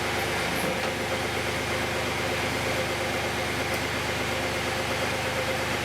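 Backhoe engine running steadily at idle while the freshly resealed hydraulic cylinder is tested for leaks.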